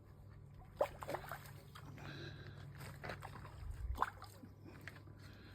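Hooked carp splashing at the water's surface close in, a handful of separate splashes over a few seconds.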